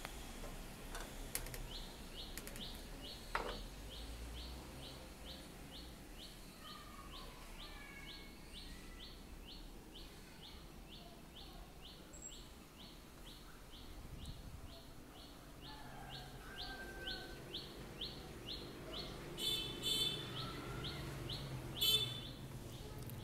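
Birds chirping faintly, one repeating a short high rising chirp over and over at about two to three a second, with other scattered calls around it. Two louder bursts of sound come near the end.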